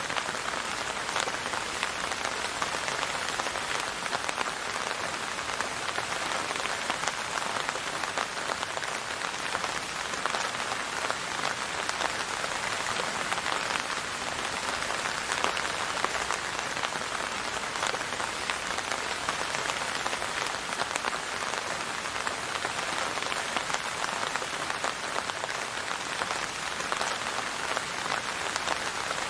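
Steady rain falling on a surface: a continuous even hiss of many small drops pattering.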